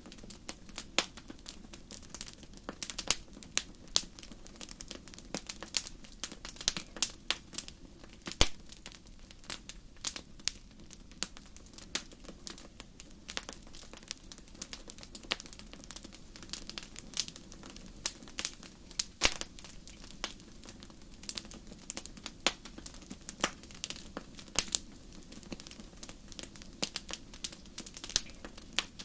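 Wood fire crackling in a fireplace: irregular sharp pops and snaps, several a second, with a few louder snaps, over a low steady rumble of the flames.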